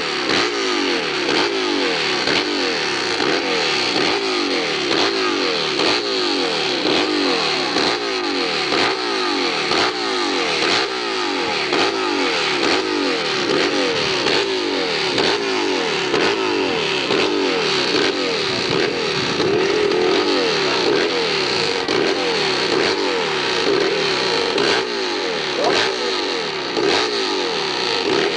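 Competition hillclimb motorcycle engine revving hard, its pitch swinging up and down over and over.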